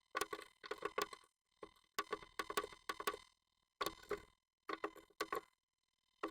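Japanese tit pecking and tapping on the wood inside a nest box: bursts of rapid sharp taps, about five groups with short pauses between.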